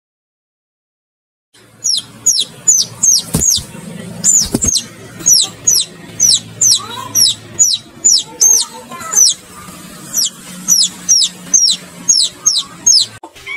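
Baby chicks peeping: a steady run of short, high, falling peeps, about three a second, starting about a second and a half in after a silent start.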